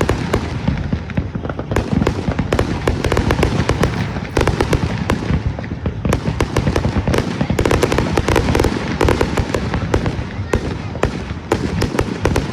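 Fireworks going off in a dense, rapid barrage: many sharp bangs and crackles a second, overlapping with no pause.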